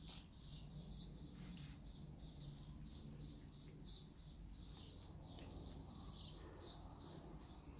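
A bird chirping faintly in the background, a short high chirp about twice a second.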